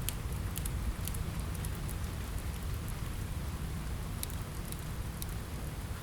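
Steady rain falling, with a low rumble under it, mixed with the sparse sharp crackles of a wood fire: a few in the first second and a few more after about four seconds.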